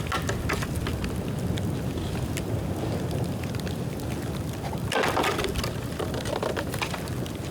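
Bonfire of dry bamboo burning: dense crackling over a low rushing rumble, with a louder flurry of crackles about five seconds in.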